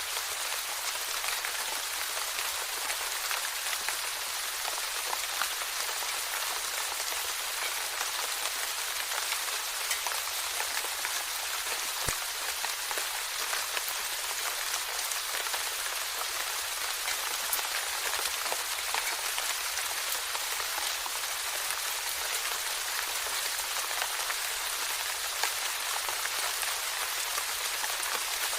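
Steady rain falling on a surface, a dense even hiss made up of many small drop ticks.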